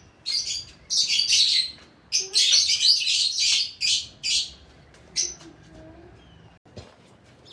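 A flock of pet budgies chirping and chattering in a rapid flurry of short, high calls, with one last chirp after about five seconds before they go quieter.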